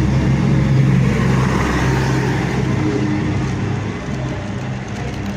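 Class 221 Voyager diesel train's underfloor engines running with a steady drone, fading gradually over the second half as the train moves away.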